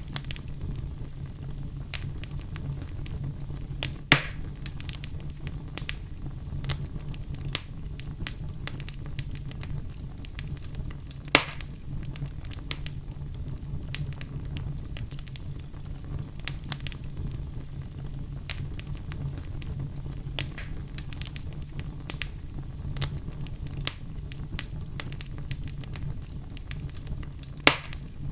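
Fire crackling in a fireplace: a steady low rumble under a constant scatter of small clicks, with three louder sharp pops, about four seconds in, around eleven seconds and near the end.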